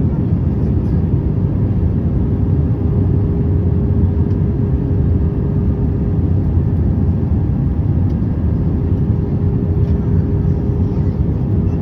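Airbus A320 cabin noise in flight: a steady, even roar of engines and airflow, heaviest in the low range, with a constant hum running through it.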